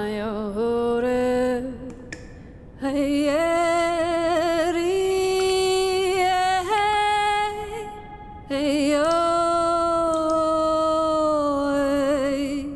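A solo female voice singing long held notes with a wavering vibrato, in several slow phrases with short breaks between them.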